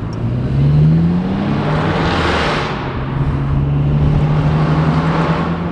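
Straight-piped Aston Martin Vantage exhaust running loud, rising in pitch over the first second and a half as the car accelerates, then holding a steady drone at speed, with wind and road noise swelling briefly.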